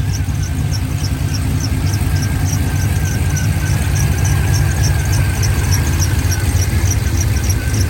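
Turbocharged Chevrolet Silverado V8 running, with a steady high-pitched squeal and a regular chirp about two or three times a second from the accessory belt; the owner suspects the alternator.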